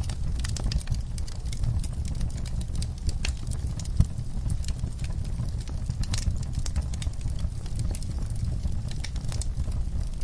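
Wood fire burning in a fireplace: logs crackling with frequent irregular pops over a steady low rumble of the flames, with one sharp pop about four seconds in.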